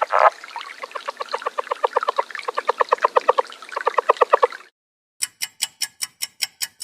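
Duck quacking in fast runs of short calls, about eight a second, after a harsh opening call. Just after it, a game clock ticks about five times a second.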